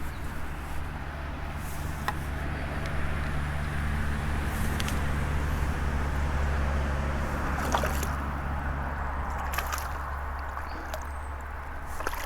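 Water sloshing and dripping close by, with a few small clicks, over a steady low hum that swells in the middle.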